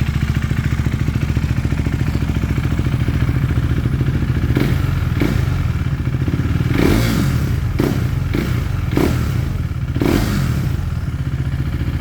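KTM Duke motorcycle engine idling, with a run of short throttle blips from about four seconds in until near the end, then settling back to idle.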